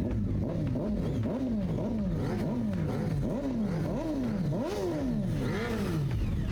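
Motorcycle engine revved in a long run of throttle blips, the pitch jumping up and sliding back down about once or twice a second, then dropping back to a steady idle near the end.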